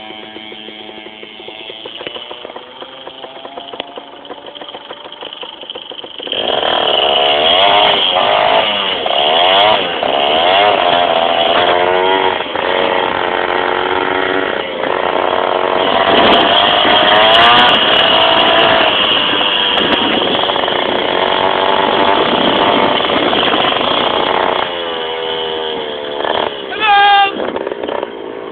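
Small two-stroke motorbike engine, running quietly at first, then from about six seconds in much louder and revving up and down over and over as the bike is ridden. Near the end comes a brief sharp rev.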